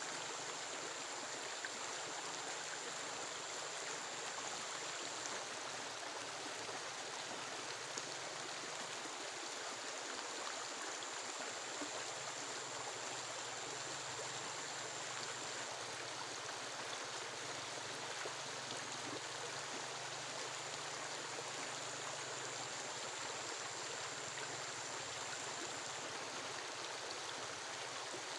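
Steady rushing water noise, even and unbroken, with a thin high whine that comes and goes.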